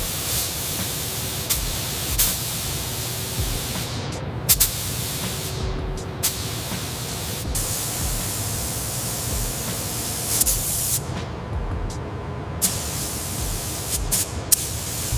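Compressed-air spray gun hissing steadily as it sprays paint, cutting off and starting again suddenly several times, with faint background music.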